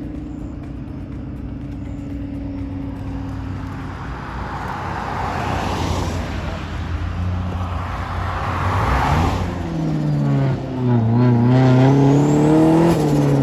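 Car engines running. A low engine hum holds steady while a rushing noise swells twice, then from about ten seconds in an engine is revved up and down several times.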